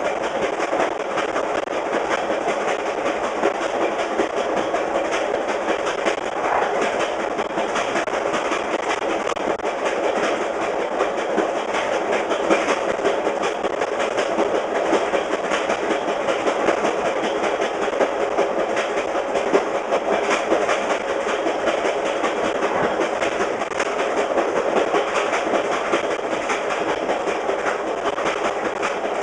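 VIA Rail passenger train running fast on jointed rail, heard from the rear of the train: a steady rumble of wheels on rail with a continuous clickety-clack as the wheels strike the rail joints, and now and then a louder clack.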